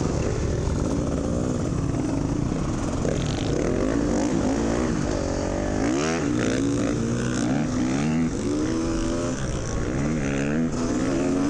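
Dirt bike engine running as the bike rides along, its pitch rising and falling again and again with the throttle, with a sharp climb about six seconds in, over a steady rushing noise.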